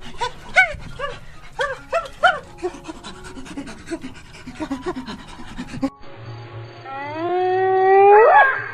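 A dog yelping in a run of short, arching yips for about six seconds, then, after a cut, a long howl that climbs in pitch near the end.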